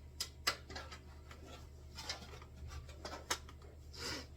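A few sharp metallic clicks and taps, about five, as small metal fasteners and parts are handled and fitted into sheet-metal pieces, over a steady low hum.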